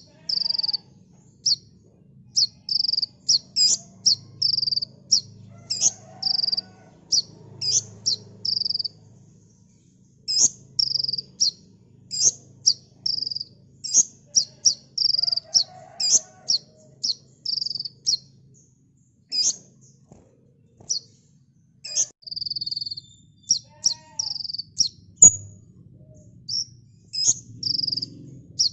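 Kolibri ninja sunbird singing: rapid runs of short, high chips and sweeps, packed closely together, with a couple of brief pauses.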